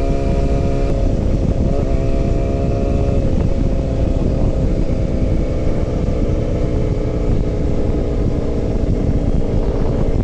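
Motorcycle engine running at a steady cruise under heavy wind noise on the microphone. The engine note holds nearly constant, with a brief small pitch change about two seconds in.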